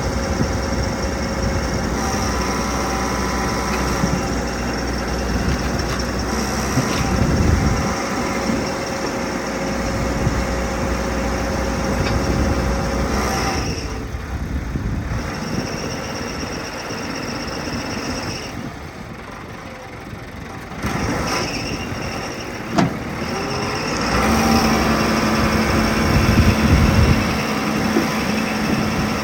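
Cat 416B loader backhoe's turbocharged diesel engine running while the machine is worked, rising and falling in level. It eases down for several seconds in the middle and comes back up near the end, with a single sharp knock partway through.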